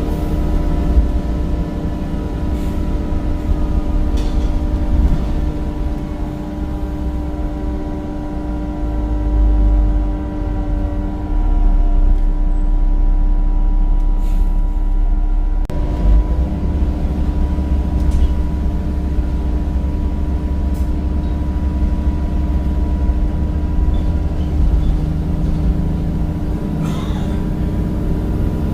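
Temsa Avenue bus with a Cummins diesel engine and ZF gearbox, heard from on board while under way: a steady low rumble with a constant whine over it. The sound dips briefly about halfway through and then picks up again.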